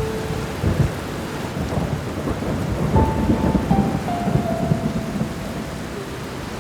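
Steady rain with low rumbling thunder that swells about three seconds in, under a slow piano melody of single held notes.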